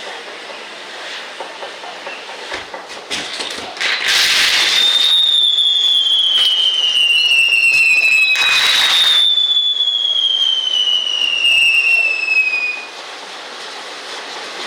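Handmade set-piece fireworks burning. Scattered crackles and pops come first. About four seconds in, a loud rushing hiss sets in and runs for about nine seconds, carrying two long whistles that slide slowly down in pitch, then it drops away.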